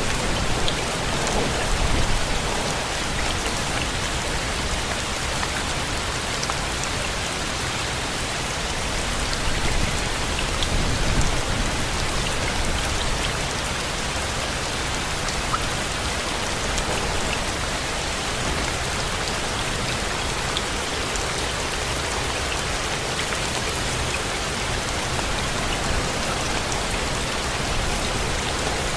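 Steady rain falling, a constant hiss with scattered individual drops ticking and a low rumble underneath.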